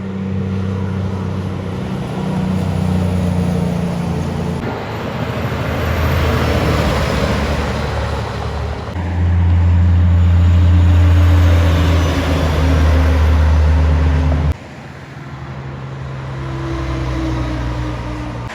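Heavy trucks' diesel engines working as they pass on the highway, a steady deep engine note throughout. The sound changes abruptly twice, about a third and three-quarters of the way in, as one passing truck gives way to the next; it is loudest just before the second change.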